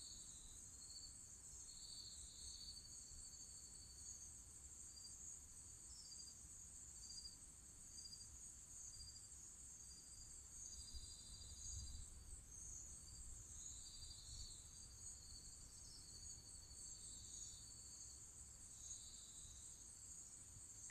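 Faint night chorus of crickets and other insects: a steady high-pitched shrill, with shorter, lower trills from individual crickets starting and stopping every second or two.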